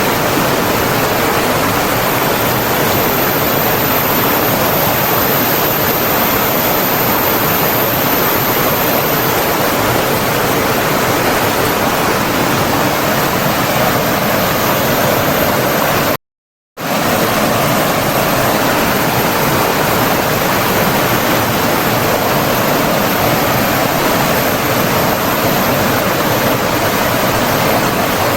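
Steady, full rush of running water, like a stream or waterfall, with no birdsong. It cuts out completely for about half a second around sixteen seconds in, then resumes.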